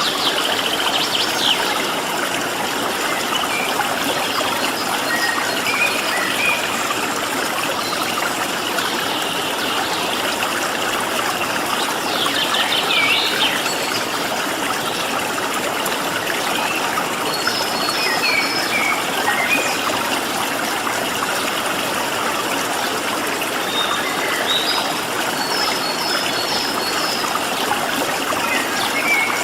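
Stream water flowing steadily, with small birds giving short chirps and calls every few seconds over it.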